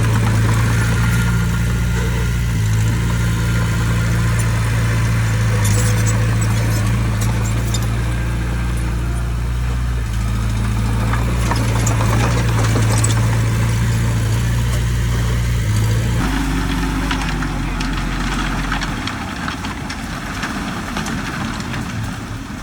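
Diesel engine of heavy earthmoving machinery running steadily with a deep, even hum. Its note changes about sixteen seconds in and thins out a few seconds later.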